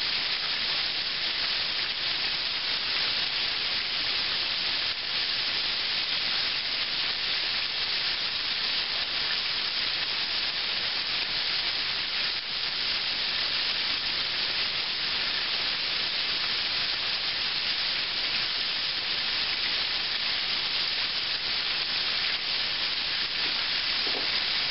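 Buttermilk-battered chicken fried steak frying in a skillet of oil over a medium-low flame, with a steady sizzle and hiss. It is frying less hard now that the meat is releasing less juice as it cooks through.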